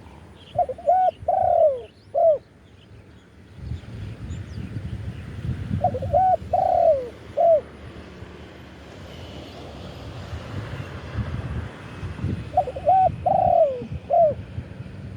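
Spotted dove cooing: three phrases about five seconds apart, each two short coos, a longer falling coo and a short closing coo. Faint chirps of other birds and a low rumble sit underneath.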